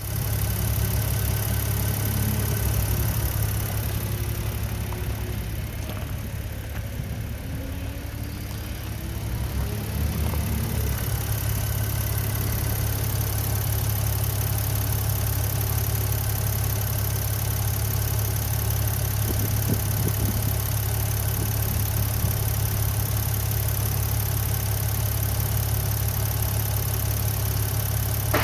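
2016 Maserati Ghibli's 3.0-litre twin-turbo V6 idling steadily.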